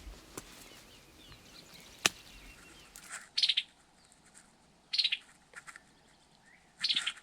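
Three short, rattling bird calls about a second and a half apart, preceded by a single sharp click.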